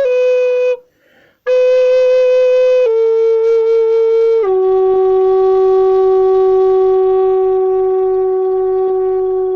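A wind instrument playing long, steady notes. The first note breaks off just under a second in, and after a short pause the playing resumes and steps down twice in pitch. It settles on a low note held for about five seconds.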